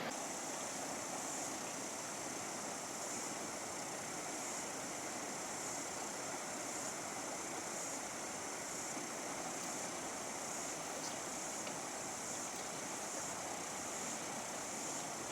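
Steady rushing of a fast river: an even, unbroken water noise with a constant high hiss.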